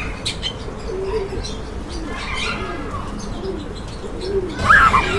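Caged pigeons cooing over and over in low rolling calls, with smaller birds chirping around them and one louder, sharper bird call near the end.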